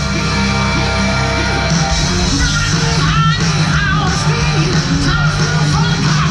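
Loud rock music with electric guitar, a heavy bass line and singing.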